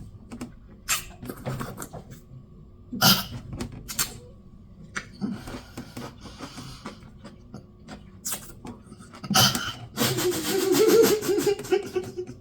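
Close-miked chewing of a sour dill pickle, with irregular wet crunches and mouth smacks. About ten seconds in, a wavering hum in the throat, like a strained groan, sounds over the chewing.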